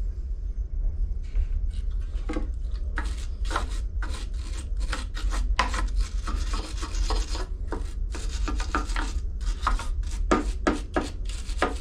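Irregular scraping and rubbing strokes, many short ones in quick succession, starting about a second and a half in, over a steady low rumble.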